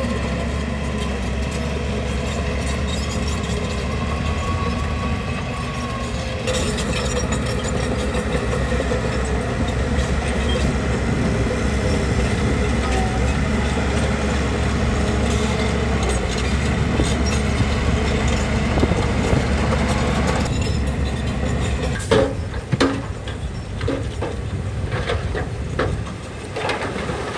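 Heavy bulldozer's diesel engine running steadily under load. From about two-thirds of the way through, several sharp knocks and clanks come in over the engine.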